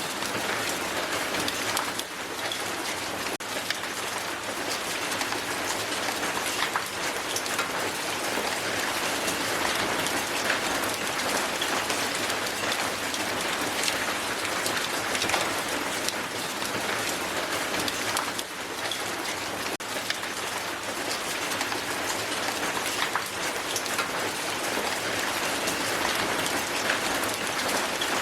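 Hailstones falling hard and striking the ground: a dense, steady clatter of many small impacts.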